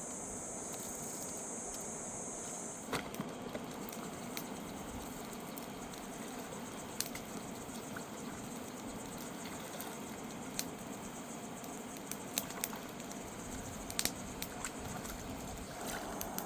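Steady rushing of a fast mountain river, with scattered sharp clicks and knocks throughout. A high hiss over it stops about three seconds in.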